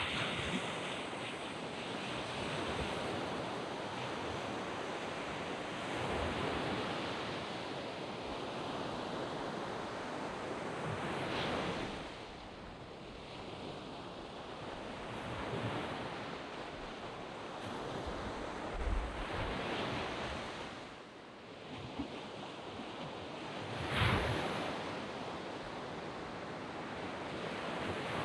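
Waves breaking and washing up a sand beach: a continuous surf hiss that swells and ebbs every few seconds, with one sharper crash a few seconds before the end.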